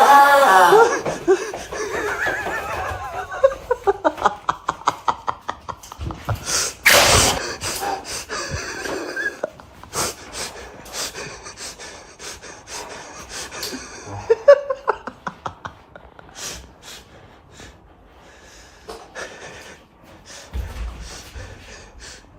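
Stifled laughter: a pitched laugh at the start, then quick breathy snorts, gasps and wheezes in rapid pulses that fade away, with a louder burst about seven seconds in.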